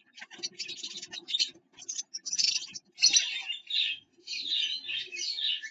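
Finch twittering in rapid runs of short chirps, mixed with scratchy clicks in the first half and getting busier from about three seconds in.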